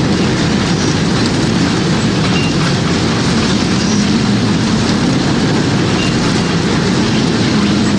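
Tornado roar: a loud, steady, unbroken low rumble of violent wind.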